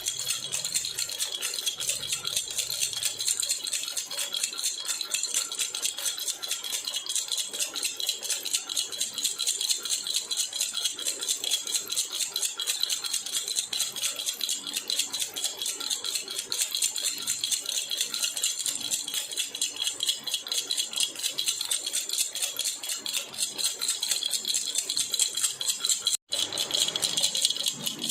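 Silver jhunjhuna, an Indian baby rattle, shaken continuously in a fast, even rhythm, with a bright metallic jingle; the sound breaks off for an instant near the end.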